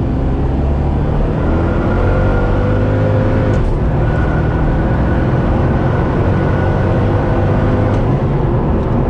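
Twin-turbo 427 V8 Corvette accelerating hard under boost, the engine note climbing in pitch, with a short break about three and a half seconds in before it climbs again.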